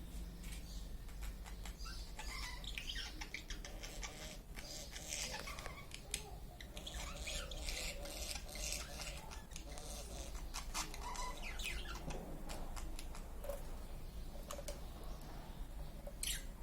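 Small birds chirping and squeaking over and over, many short high calls overlapping, with a steady low hum underneath.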